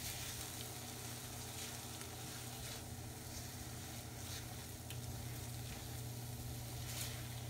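Thick gajar ki barfi mixture of grated carrots, milk powder and sugar sizzling in ghee in a wok while being stirred and scraped with a spatula. This is the final roasting (bhunna) stage. A steady low hum runs underneath.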